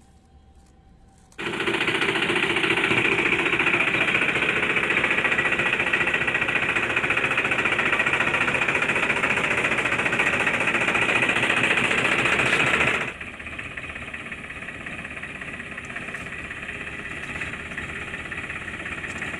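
Toy tractor's small motor and plastic gears running with a fast, steady mechanical rattle. It starts abruptly about a second in and drops suddenly to a quieter rattle about two-thirds of the way through.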